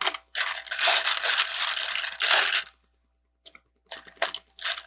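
Loose plastic Lego pieces rattling and clattering as a hand sifts through a tray of sorted parts. There is a dense stretch of about two seconds, a short pause, then a few brief rattles.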